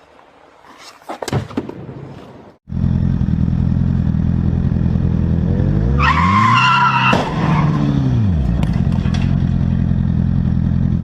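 A car engine starts suddenly and runs loud, with engine pitch rising and falling in the middle and a brief tyre squeal about six seconds in. Before the engine comes in there are a few knocks.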